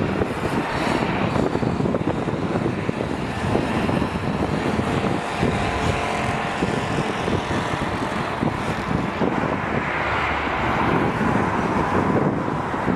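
Jet airliner engines: a steady rush with a faint whine through the middle, swelling again about ten seconds in.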